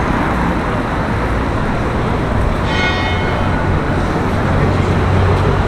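City street traffic: steady road noise with a vehicle engine running low. There is a brief high ringing tone about three seconds in.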